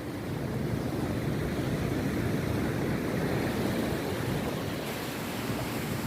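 Rough sea waves surging and breaking on the shore: a continuous, deep wash of surf that swells a little louder about half a second in and eases slightly near the end.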